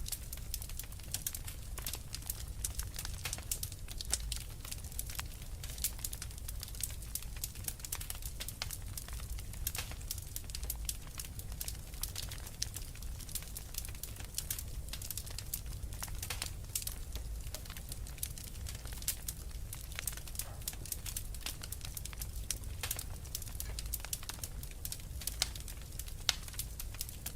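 Wood fire crackling steadily in a fireplace: dense, irregular small pops and snaps over a low, steady rumble of the flames.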